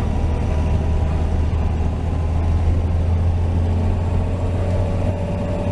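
1949 Chevy 3100 pickup's 235 inline-six with dual exhaust running steadily at cruise, a deep, even drone. A faint steady whine comes in near the end.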